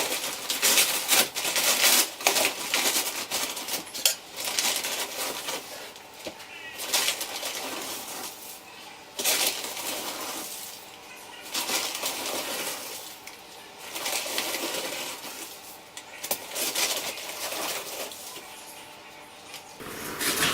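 Repeated rustling, scraping swishes with a few knocks as dry heat-resistant masonry mix and an old basin are handled to start a batch of mortar.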